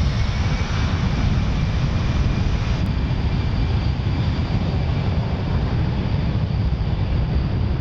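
Jet engines of a Boeing C-17 Globemaster III, its four Pratt & Whitney F117 turbofans, running loud and steady: a dense rush of engine noise with a faint high whine over it.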